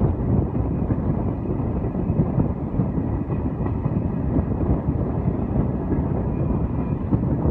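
Egyptian passenger train (train 90) running after leaving a station: a steady low rumble of the train on the track, with no sudden events.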